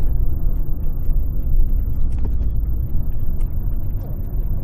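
Modified Porsche Boxster on the move, heard as a steady low rumble of engine and road noise inside the cabin.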